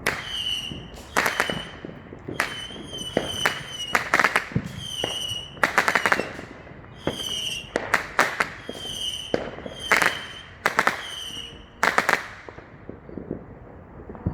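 Consumer fireworks going off in quick succession: a dozen or so sharp bangs about a second apart, many followed by a short high whistle, stopping about two seconds before the end.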